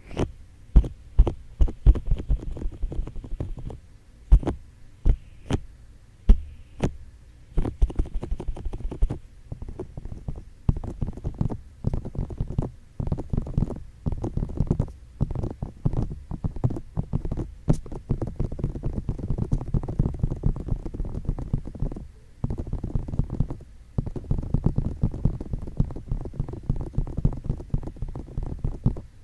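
Close-miked ASMR ear tapping and ear touching: fingertips tapping on the ears with deep, muffled thuds. At first separate taps about one or two a second, then from about eight seconds in a fast, continuous patter of tapping and rubbing, with two brief pauses near the end.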